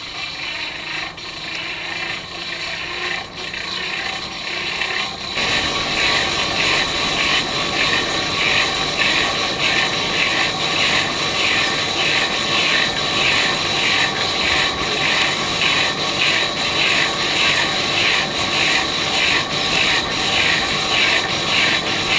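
Hand-cranked forge blower being turned: the gears whir with a steady high whine and a rhythmic clatter about two to three times a second. It gets louder about five seconds in, as the cranking speeds up.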